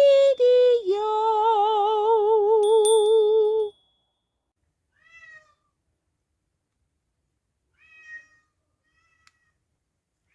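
A long, drawn-out meow with a regularly wavering pitch, cutting off about four seconds in. A few faint short chirps follow.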